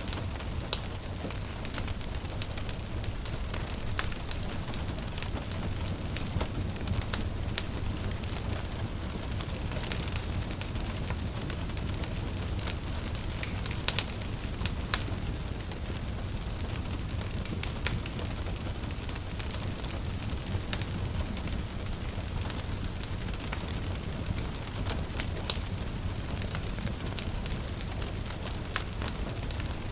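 Wood fire crackling in a fireplace, with irregular sharp pops over a steady low rumble, and a gentle rain hiss behind it.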